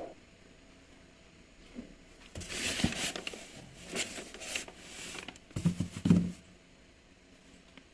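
Rustling and handling noises with a few light knocks, starting about two and a half seconds in and stopping around six seconds in.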